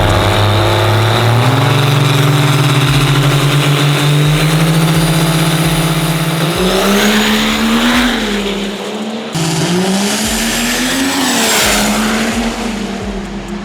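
Diesel race truck on a drag-strip run: loud engine with a turbocharger whine that climbs steadily in pitch, then the engine note dips and swells twice in the second half.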